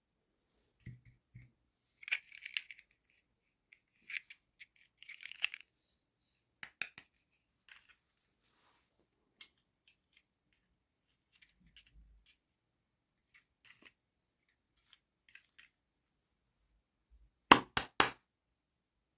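Hands opening and handling small plastic toy packaging: scattered crinkling, scraping and light clicks, then three sharp plastic clicks in quick succession near the end, the loudest sounds.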